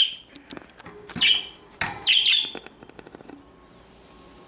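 Pet budgerigar chirping: three short, high chirps, one right at the start, one about a second in and a longer one about two seconds in, then quieter.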